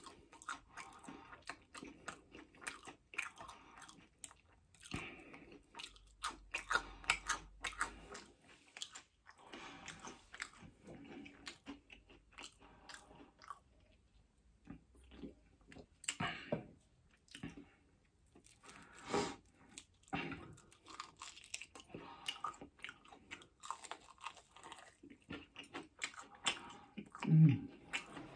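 Close-miked chewing and crunching of Chinese takeaway food: irregular wet bites and crunches that ease off into a quieter stretch about halfway through. Near the end comes a brief low vocal hum, the loudest sound here.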